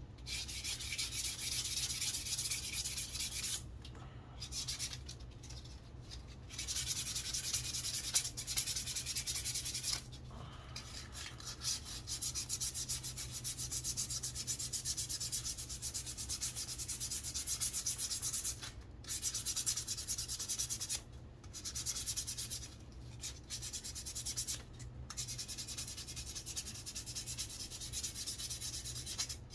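Sandpaper rubbing along a wooden walking stick in fast, steady strokes. The strokes come in runs of several seconds, broken by short pauses.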